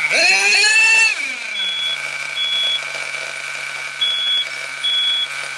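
Small nitro-fuel RC car engine just started: it revs high for about a second, then drops to a steady idle. Revving it up, the owner says it was starving for fuel, partly from being cold, so running lean. A smoke alarm beeps repeatedly in short high beeps from about one and a half seconds in, set off by the engine's exhaust smoke.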